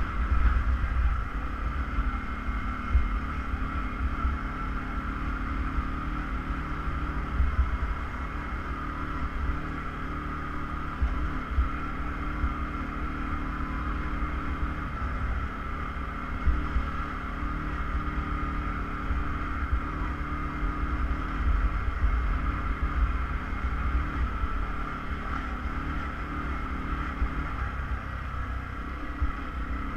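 ATV engine running steadily while riding, with occasional brief knocks.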